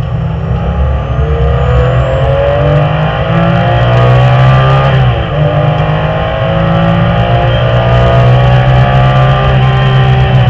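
Porsche 997 GT3 RS flat-six engine heard from inside the cabin, accelerating hard with revs climbing. There is an upshift about five seconds in, where the pitch drops briefly before climbing again.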